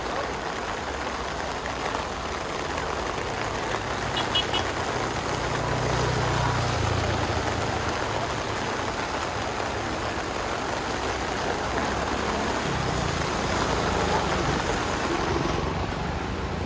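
Steady rushing of floodwater, with a vehicle engine's low hum swelling about five seconds in and again around twelve seconds in.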